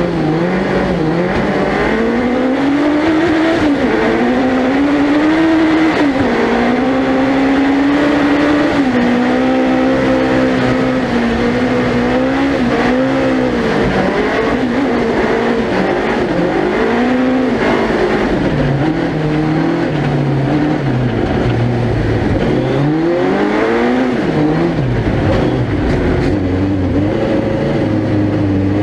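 Suzuki Hayabusa 1300cc four-cylinder motorcycle engine in a lightweight four-wheel-drive ice-racing prototype, heard onboard, revving up and down through the gears as the car is driven hard around a lap. The pitch climbs and drops again and again, with a run of quick rising sweeps from gear changes near the end.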